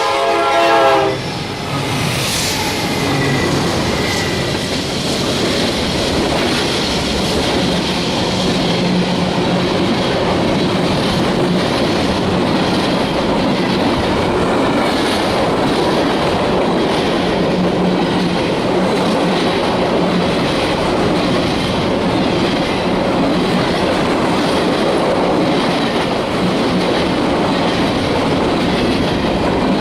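A freight train's diesel locomotive horn cuts off about a second in, and the train then rolls past steadily, its wheels clicking over the rail joints.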